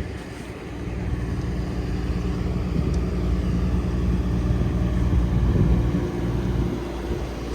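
A motor vehicle's engine running close by: a steady low rumble with a low hum, growing louder through the middle and easing off near the end.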